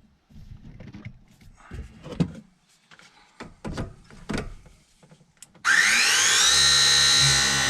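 Light clicks and knocks of handling, then near the end a battery press tool's motor starts with a whine rising in pitch and holds steady, crimping a press fitting onto copper refrigerant line.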